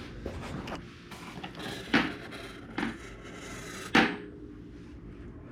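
Bench handling noise: three sharp knocks or clicks about two, three and four seconds in, the last the loudest, over a faint steady hum.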